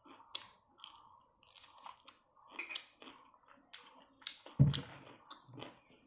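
A person chewing and crunching food close to the microphone, with short sharp clicks throughout. About two-thirds of the way in there is a single dull thump, the loudest sound.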